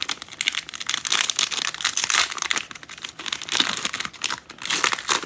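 Cellophane wrappers of trading card packs crinkling as they are handled and opened, a dense crackle throughout.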